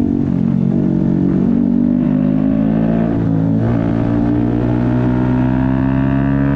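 2024 Yamaha MT-125's single-cylinder four-stroke engine pulling under acceleration while riding, its pitch climbing steadily.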